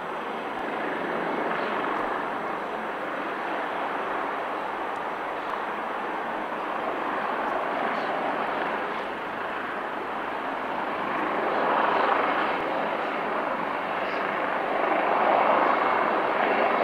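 AgustaWestland AW139 twin-turbine helicopter running, a dense rush of turbine and rotor noise that grows louder and swells twice in the last few seconds.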